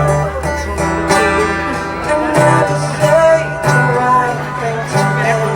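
Live song performance: acoustic guitar chords with a sung melody.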